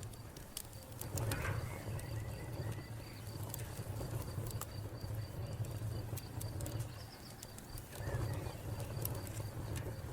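Wood fire crackling with scattered sharp pops over a low rumble, while a cricket chirps steadily at about four chirps a second.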